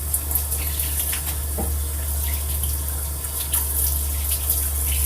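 Kitchen sink tap running steadily, the water splashing as a spoon is rinsed under it, with a few light clicks.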